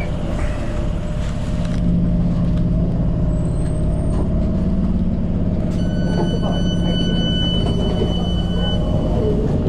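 Tyne and Wear Metro train running with a steady low rumble and rattles. About six seconds in, a steady high-pitched tone sounds for about three and a half seconds.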